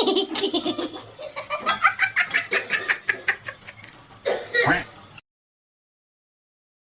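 A rapid run of short, repeated clucking calls for about five seconds, cut off abruptly.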